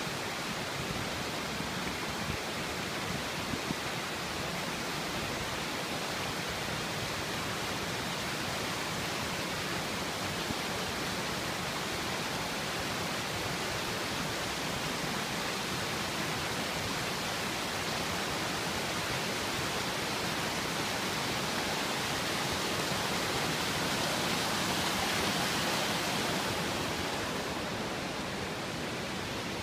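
The Mischbach waterfall rushing: a steady, dense roar of falling water that swells slightly and grows brighter about three-quarters of the way through.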